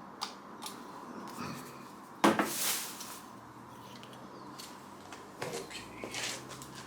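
Scattered light clicks and knocks from tools and parts being handled, with one louder knock a little over two seconds in that rings briefly.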